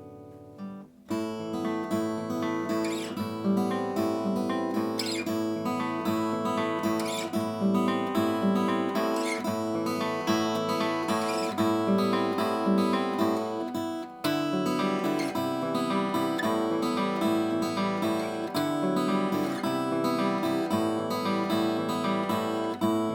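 Vintage Japanese acoustic guitar played as a sound check: a chord rings and fades, then from about a second in a steady run of picked and strummed notes follows, with a short break about fourteen seconds in.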